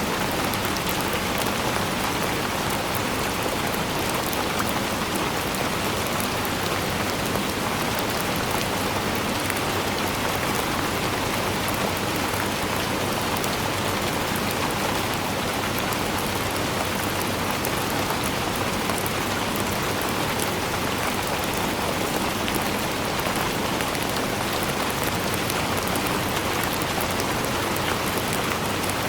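Steady rainfall, an even hiss of drops with fine pattering up high, holding one level throughout.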